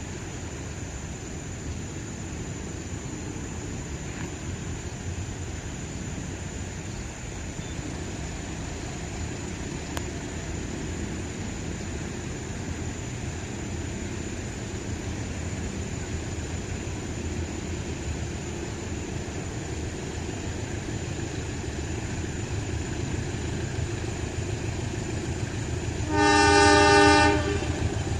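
Steady low rumble of road traffic, then, near the end, an approaching diesel locomotive's horn sounds one loud blast of about a second, several tones at once.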